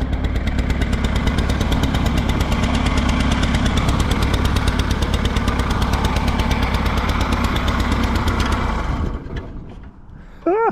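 Allis-Chalmers G tractor's small four-cylinder gasoline engine running with an even, rapid firing beat, then stopping about nine seconds in. It runs rich, which the owner traces to a sticking carburetor.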